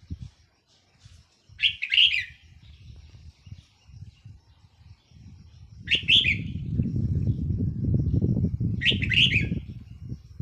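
Red-whiskered bulbul singing three short, bright warbled phrases a few seconds apart. A low rumbling noise runs under the second and third phrases.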